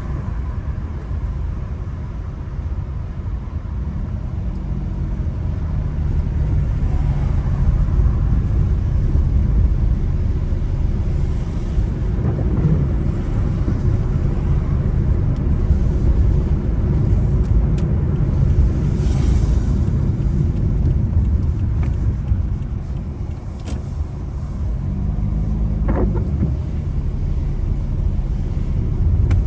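A car driving along a rain-wet road: a steady low rumble of engine and tyre noise, with a few faint clicks.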